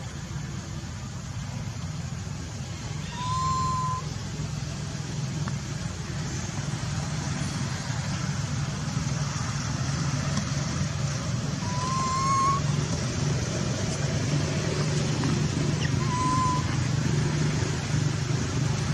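Steady low engine-like hum, like vehicle traffic, with three short, slightly rising high calls heard at intervals.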